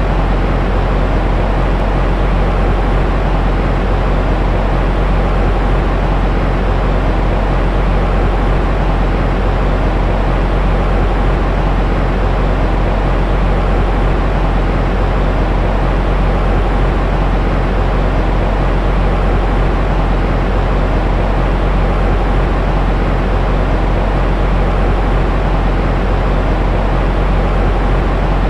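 Steady sleep-aid noise: a continuous, even rushing rumble, heaviest in the deep bass with only soft hiss above. It does not change and has no rhythm.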